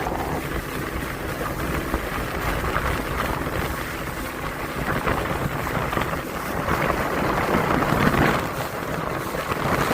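A boat's motor running steadily, mixed with wind buffeting the microphone.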